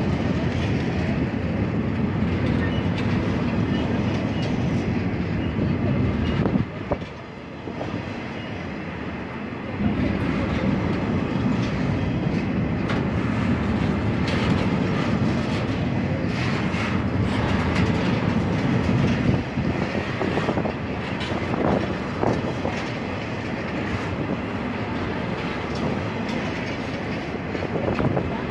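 Double-stack intermodal container train's well cars rolling past, a steady rumble of steel wheels on rail with scattered clicks and knocks. The rumble dips for about three seconds around seven seconds in, then picks up again.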